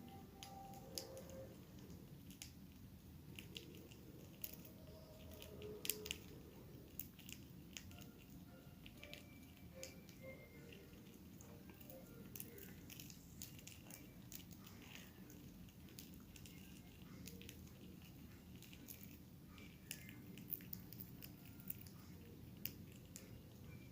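Small cage birds making faint scattered clicks and taps, with a few short, faint chirps, over a low steady room hum.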